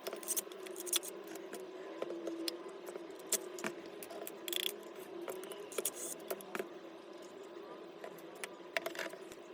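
Irregular light clicks, taps and small rattles of plastic and metal parts being handled as a cordless disc grinder is taken apart, over a faint steady hum.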